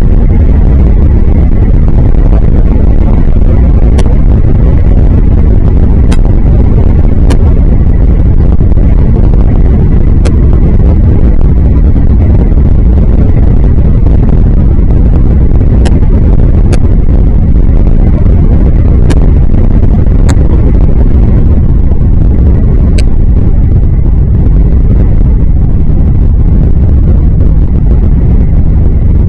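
Strong wind buffeting the microphone in a heavy, steady low rumble, with a few faint sharp ticks scattered through it.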